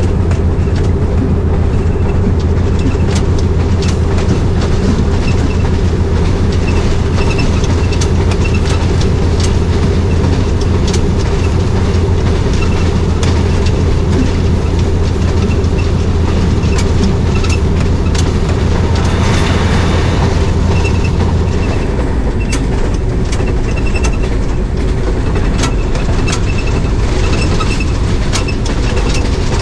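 Passenger train under way at speed, its wheels clicking steadily over rail joints above a continuous low rumble. The low drone drops away about three-quarters of the way through, while the clicking continues.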